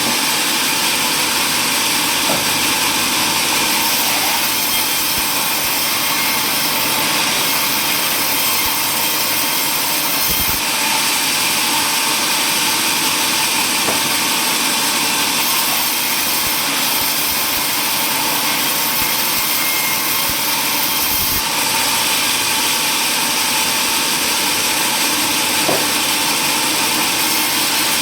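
Power saw running steadily while cutting wood: a loud, even noise with a few faint knocks now and then.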